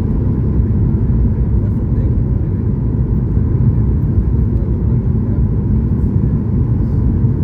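Steady cabin noise inside a Boeing 737 MAX 8 on approach: an even, low rush of engine and airflow noise.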